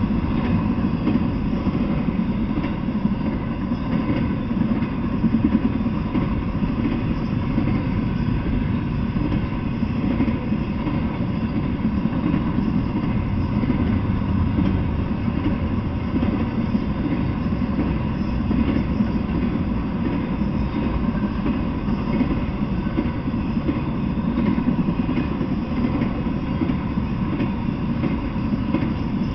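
Intermodal freight train cars rolling past at a steady speed, a continuous rumble of steel wheels on the rails without letup.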